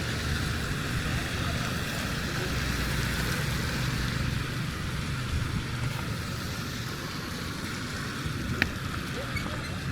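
Steady city street traffic: a continuous low rumble and tyre hiss from passing vehicles, with a single sharp click near the end.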